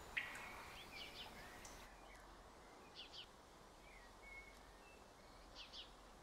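Faint birds chirping against a quiet outdoor background: a few short high calls scattered through, with a pair of quick chirps about halfway and again near the end.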